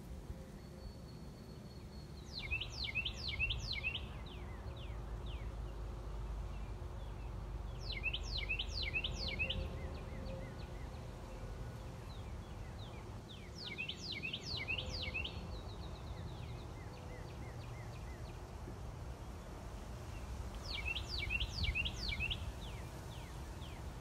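A songbird singing the same short phrase four times, about every five to six seconds, each phrase a quick run of high notes that each sweep sharply downward. Under it runs a low steady rumble.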